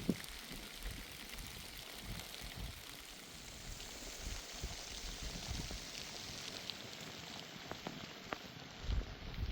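Rain falling: a steady fine patter with scattered drop ticks. There is a sharp knock right at the start and a few low thumps near the end.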